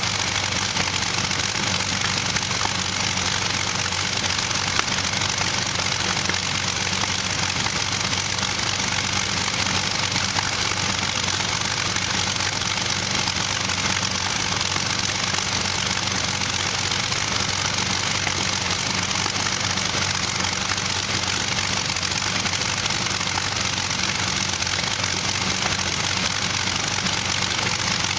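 Allison V-1710 V12 aircraft engine, fuelled on LPG, running steadily at a low, even speed.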